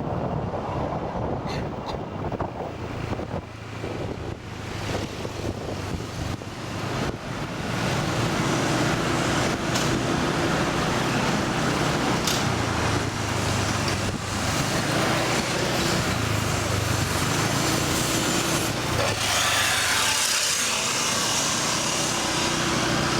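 Motor scooter engine running, with road and wind noise, getting louder about eight seconds in.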